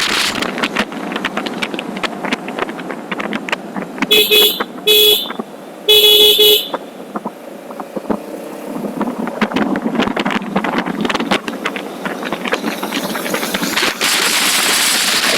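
A vehicle horn honks three times, two short toots and then a longer one, about four to six seconds in. Steady wind and road noise from riding runs throughout.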